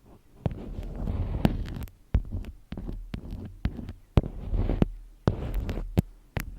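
Close-miked ASMR handling sounds: sharp taps and clicks among stretches of low rubbing or scratching, in uneven bursts with short pauses between.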